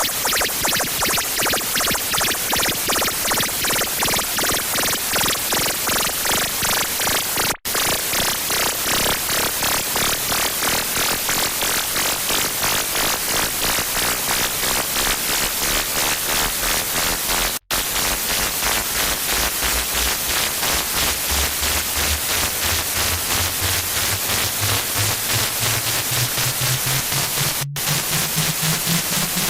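Harsh noise music: loud distorted static pulsing rapidly, cutting out briefly three times. In the second half a low drone slides slowly upward in pitch under the static.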